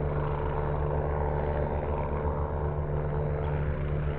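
Steady engine drone, even in pitch, with a low rumble under it.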